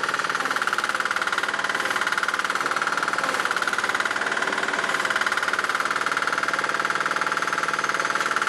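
Small Yanmar NFAD6-E single-cylinder diesel engine of a BOMAG BW61YS walk-behind vibratory roller running steadily with a rapid, even chugging.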